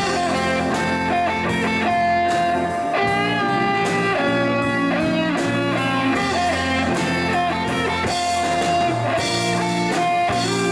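A band playing a song's instrumental intro: a guitar melody with sustained, gliding notes over bass and a steady drum beat.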